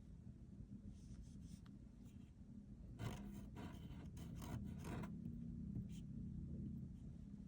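Drawing strokes on paper: short scratchy strokes in clusters, about three seconds in and again around four to five seconds, over a low steady hum.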